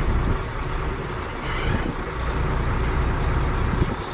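A 2006 Volvo semi truck's diesel engine idling with a bad miss, which the fault codes put on injector number 6. A short hiss sounds about a second and a half in.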